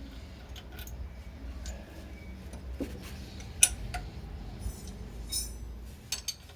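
Scattered light metallic clinks and taps of tools and parts being handled, one sharper clink about halfway through and two more near the end, over a steady low hum.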